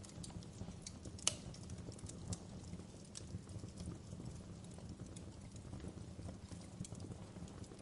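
Wood fire burning in a fireplace with a low steady rumble and scattered sharp crackles and pops of burning logs, one loud pop about a second in.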